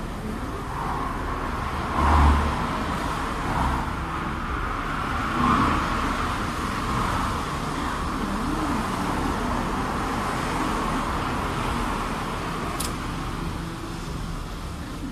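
Motor vehicle engine running amid road and traffic noise, swelling louder briefly about two seconds in and again about five seconds in. A short sharp click comes near the end.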